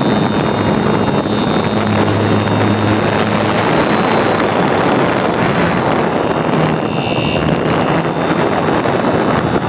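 Model airplane's motor and propeller in flight, recorded from right under the plane: a steady high whine over heavy rushing air noise, the whine dropping slightly in pitch about four seconds in.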